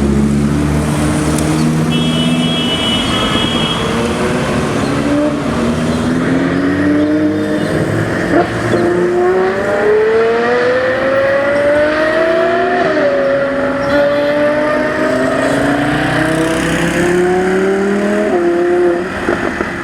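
Supercar engine accelerating hard, its pitch climbing steadily and dropping sharply twice, about two-thirds of the way through and near the end, as it changes up through the gears.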